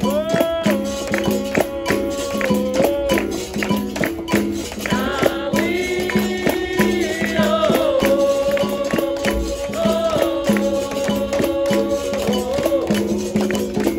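Capoeira roda music: a sung call line over a steady, rhythmic percussion bed of tambourine-like pandeiro jingles and rattles, with a low droning instrument tone switching between two notes.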